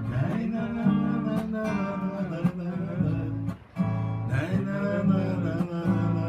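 Acoustic guitar playing strummed and picked chords in a steady rhythm, with a brief pause between chords about three and a half seconds in.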